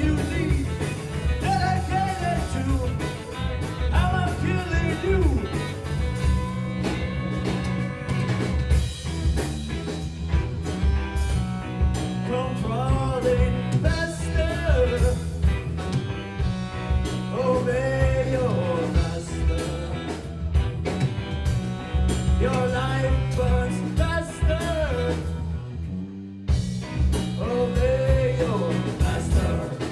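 Trombone band playing a heavy-metal cover: trombones carry the wavering melody over a pounding low riff and a steady beat. The music briefly thins out near the end.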